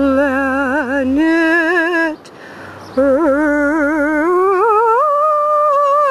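A solo voice singing or humming a wordless melody with vibrato in two phrases. The second phrase climbs to a higher held note about five seconds in.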